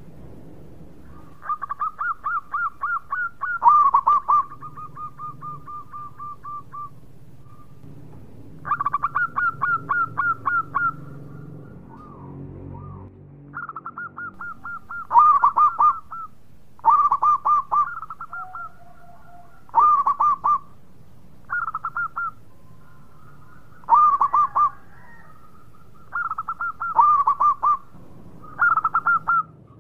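Zebra doves (perkutut) cooing: repeated phrases of quick staccato notes, one every couple of seconds with short gaps, some phrases overlapping one another.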